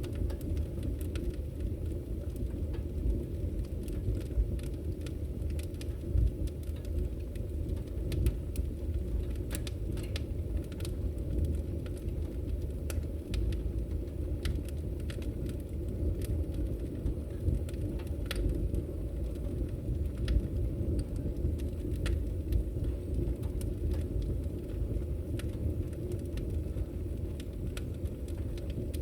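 Fire burning in a fireplace: a steady low roar of the flames with scattered sharp crackles and pops.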